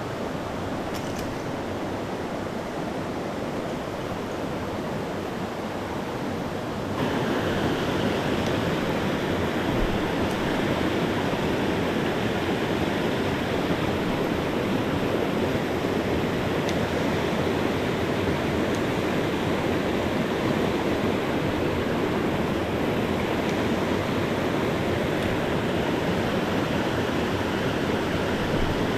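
Mountain stream rushing over rocks, a steady wash of water that grows louder about seven seconds in.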